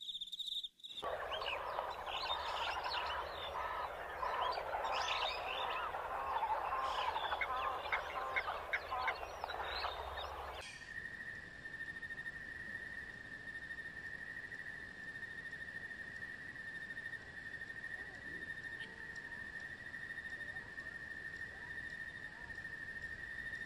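A dense chorus of frogs calling, many short chirps and trills overlapping, which cuts off suddenly about ten seconds in. After that a single steady high tone holds over faint hiss.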